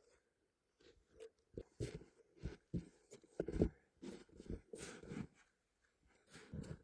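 Hard, icy snow crunching in a run of short, irregular crunches that start about a second in, pause, and come twice more near the end.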